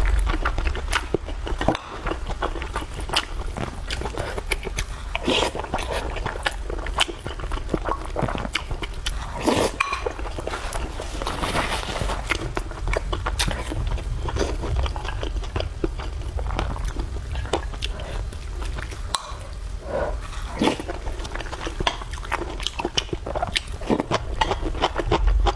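A person eating close to the microphone: irregular, rapid chewing, smacking and biting clicks with occasional slurps, over a steady low hum.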